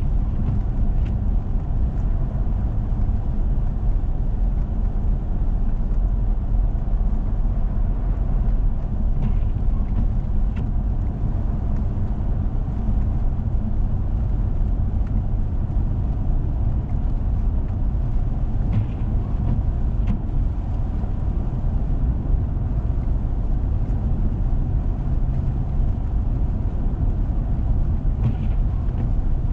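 A 4x4 vehicle driving on a snowy road: a steady low rumble of engine and tyre noise, with a few faint ticks now and then.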